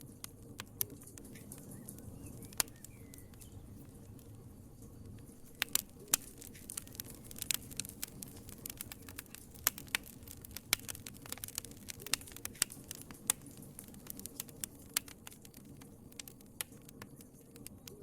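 Wood fire in a fireplace crackling: irregular sharp pops and snaps over a low steady rumble of the flames. The pops come thicker and louder from about six seconds in until near the end.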